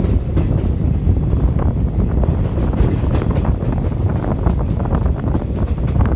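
Wind buffeting the microphone: a loud, steady low rumble, with scattered faint clicks over it.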